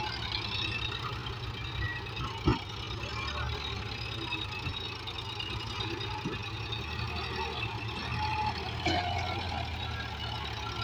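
Tractor diesel engine running steadily at idle, with one sharp knock about two and a half seconds in.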